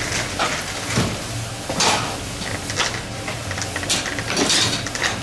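Irregular mechanical clicking and knocking, with a few louder knocks about a second in, near two seconds and near four seconds.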